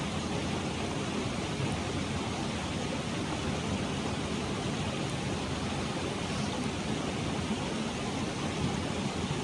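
Steady rush of a clear mountain stream flowing over rocks, even and unchanging.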